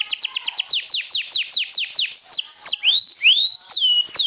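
Domestic canary singing: a quick series of high, downward-sweeping whistled notes, about six a second, slowing after two seconds into wider, slower swoops with a few rising notes.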